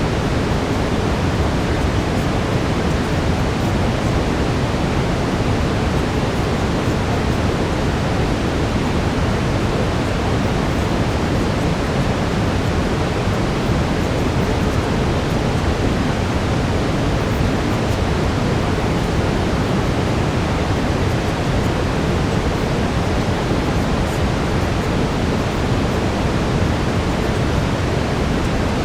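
Steady brown noise: an even, deep rushing hiss, heaviest in the low end, unchanging throughout.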